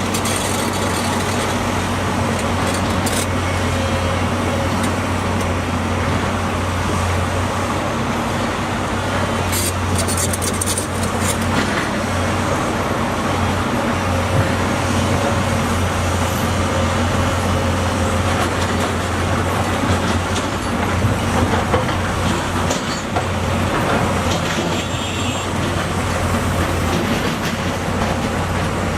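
Heavy diesel engine of an earthmoving machine running steadily under work, with a few sharp metallic knocks about ten seconds in.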